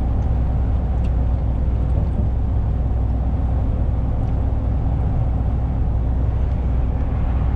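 Steady low drone of a lorry's engine and road noise, heard from inside the cab while driving.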